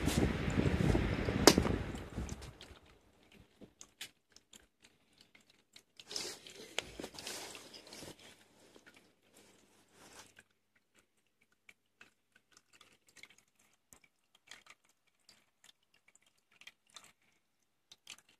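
Crackling, rustling noise on a faulty phone microphone: a loud rushing noise for the first two seconds or so, then scattered sharp clicks with a short patch of rustling about six to eight seconds in.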